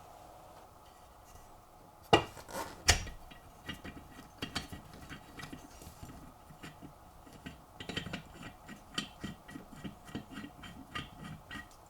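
Metal parts of a hand-cranked meat grinder being handled and taken apart: two loud clanks about two seconds in, then a long run of small metallic clicks and knocks.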